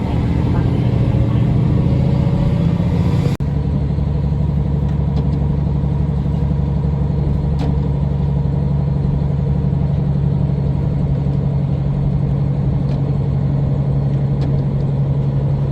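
Diesel railcar running, heard aboard: a steady low engine drone with rumble. About three and a half seconds in, the sound breaks off for an instant and resumes with a slightly different tone.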